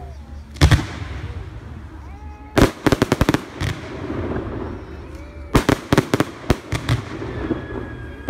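Fireworks going off: a single bang, then two rapid volleys of crackling reports in quick succession.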